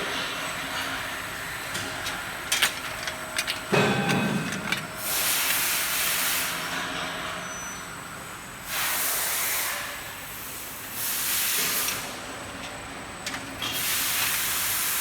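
Bottle washing machine running with a steady hum, a few clicks and a knock, then four separate bursts of loud hissing from its jets, each lasting a second or two.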